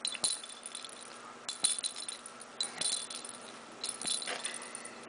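Short jingling rattles, about five of them spread over the few seconds, as a cat bats a toy ball around.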